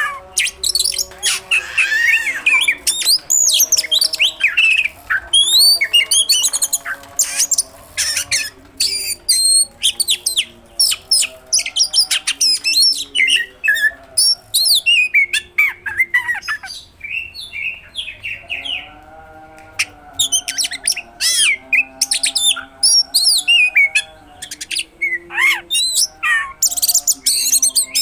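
Oriental magpie-robin (kacer) singing in full voice: a dense run of rapid whistles, sweeps and sharp clicking notes packed with mimicked calls of other birds, with a short lull about two-thirds through.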